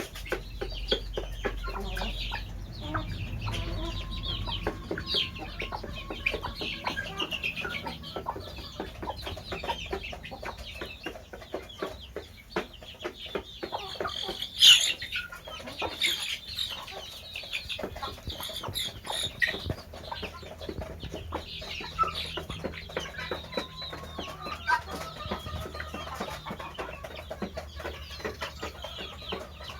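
Chickens clucking, over a steady patter of short clicks and taps, with one sharp, louder sound about halfway through.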